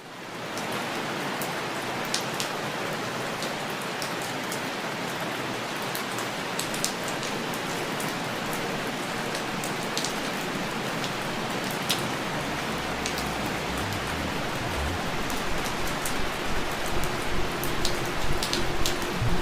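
Steady rain falling, with the sharp ticks of single drops scattered through it; it comes in suddenly at the start. A low rumble joins in about two-thirds of the way through.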